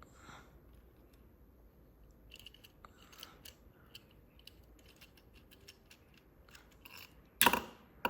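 Small clicks and light scrapes of a diecast model truck and its parts being handled by hand, with a louder brief rush of noise near the end.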